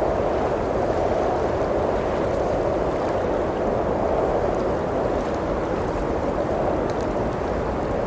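Blizzard wind blowing steadily, a dense rushing noise that swells and eases slowly, with faint crackles from a wood fire now and then.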